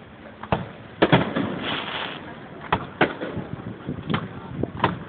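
Fireworks going off: about six sharp bangs at uneven gaps, the loudest about a second in and again about three seconds in, with a crackling hiss after the first big one.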